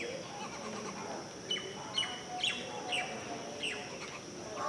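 A bird chirping outdoors in a run of short, falling notes, about two a second, with a steady high-pitched drone behind it.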